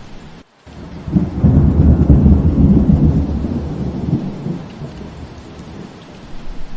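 Steady rain with a roll of thunder: a deep rumble swells about a second in, peaks, and fades away over the next few seconds. The sound cuts out briefly just before the thunder.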